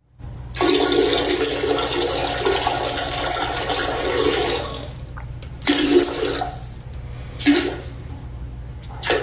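A rush of water noise lasting about four seconds, then three short rushes.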